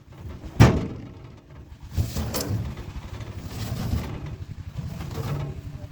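A sharp knock about half a second in, then from about two seconds a low engine runs steadily with a fast, even pulse.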